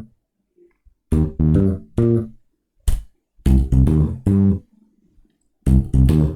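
Solo electric bass guitar playing three short phrases of plucked notes with silent pauses between, plus a single muted click in the middle: a triad-based praise bass line.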